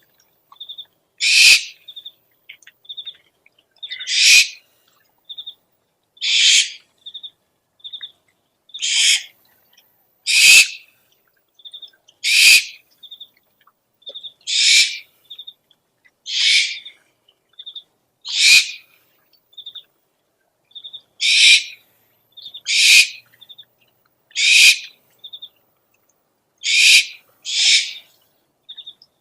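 Owl calls: a rasping, hissy call about half a second long, repeated roughly every two seconds, with short high peeping notes in between.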